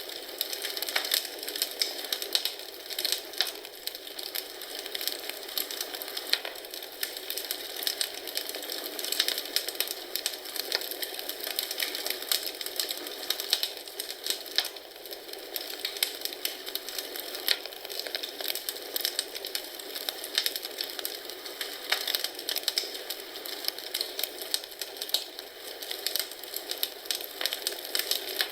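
Wood fire in a fireplace crackling, with a steady run of small pops and snaps over a soft hiss.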